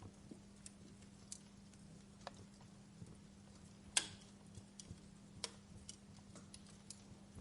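Wood fire in a fireplace crackling: scattered small snaps and pops at irregular intervals over a faint hiss, with one louder pop about four seconds in.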